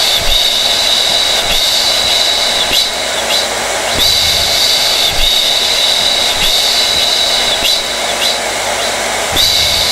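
Hair dryer running steadily: a loud rush of air with a high whine held over it.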